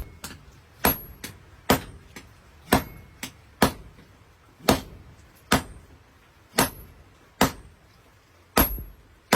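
Hammer blows on a hot khukuri blade at the anvil during hand forging, steady at about one strike a second. Each blow is a sharp metallic clank with a short high ring.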